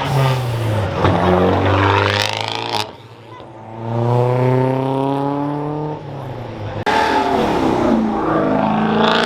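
Car engines revving hard as cars accelerate away, in three rising pulls with a brief drop about three seconds in and a sudden loud return near seven seconds.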